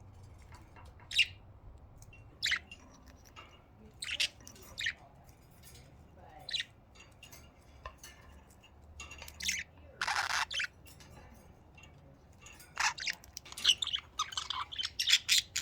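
Budgerigars chirping: short, separate high chirps at first, a longer, louder call about ten seconds in, then rapid overlapping chatter near the end.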